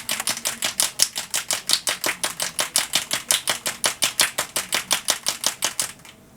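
Rapid, even back-and-forth scratching strokes on paper, about six a second, as the bird is coloured or rubbed in with darker blue. The strokes stop about six seconds in.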